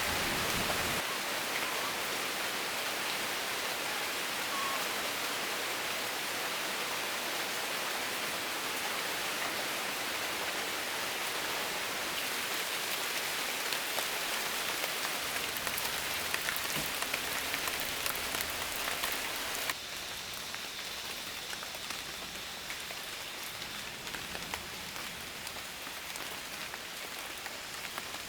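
Steady rain falling, a continuous hiss with scattered drops ticking. The sound steps down in level about a second in and again about two-thirds of the way through.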